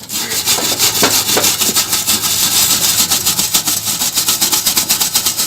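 A brush scrubbing the punctured spot on a refrigerator in rapid, even back-and-forth strokes, cleaning it before it is welded.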